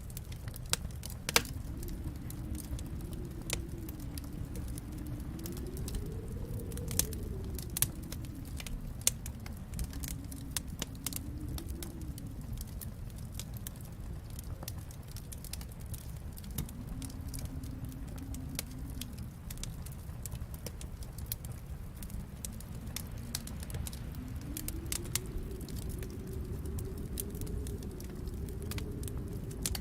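Wood fire crackling and popping in a fireplace over a low rumble, with a few sharper pops in the first ten seconds. Behind it a snowstorm wind howls, its pitch slowly rising and falling.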